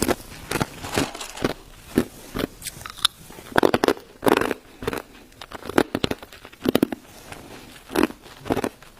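A person chewing ice, crunching it between the teeth in a steady run of sharp crunches, about two a second, with louder bursts of cracking near the middle.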